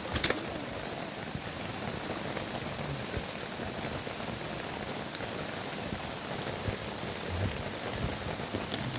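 Steady rain falling on surfaces, an even hiss of drops, with one sharp crack just after the start.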